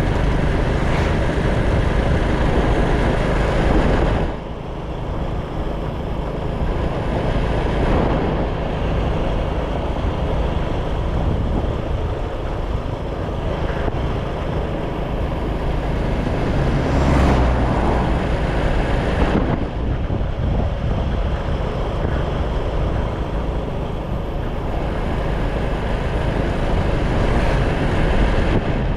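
Motorcycle engine running while riding, with wind buffeting the microphone; the engine note and wind noise shift several times along the way.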